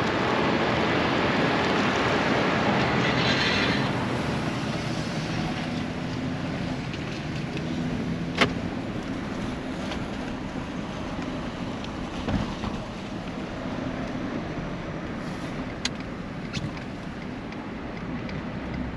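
Truck driving on the road: a steady engine and road rumble, louder for the first few seconds, with a sharp click about eight seconds in and a smaller knock a few seconds later.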